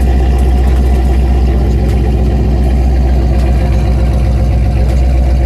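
A car engine idling steadily, a loud, even low rumble.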